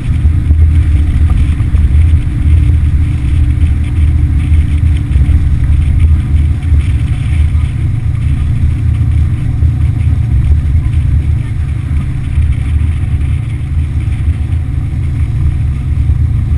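Motorboat under way on a Yamaha F60 four-stroke outboard, giving a loud, steady low rumble that churns unevenly throughout.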